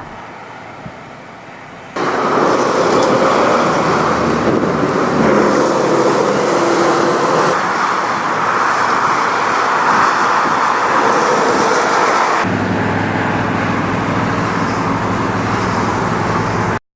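Loud, steady vehicle and wind noise that starts suddenly about two seconds in. About twelve seconds in it switches abruptly to a lower engine hum, then cuts off suddenly near the end.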